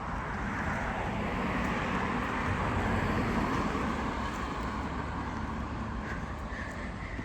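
A vehicle passing on the road; its noise builds to a peak about three seconds in, then fades away.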